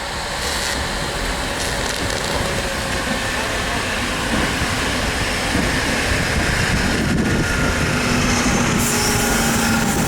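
Electric train running on rails, with bursts of crackling hiss from the pantograph arcing against ice-coated overhead wire: short ones about half a second and two seconds in, and a longer one near the end.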